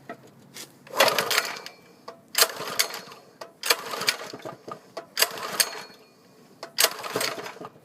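Five pulls on the recoil starter of a Lifan 6.5 hp single-cylinder four-stroke engine, each a short burst of rope rasp and engine cranking, about a second and a half apart. The cold engine, choke on, does not catch.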